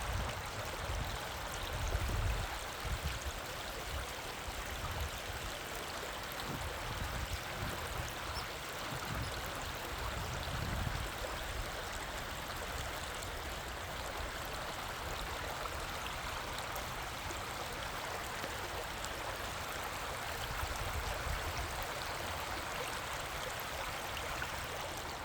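River water flowing steadily, a continuous rushing. Irregular low rumbles come and go under it for about the first ten seconds.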